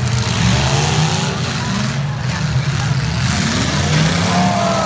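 Several demolition derby cars' engines running and revving under load as they push into each other, with the pitch rising about four seconds in.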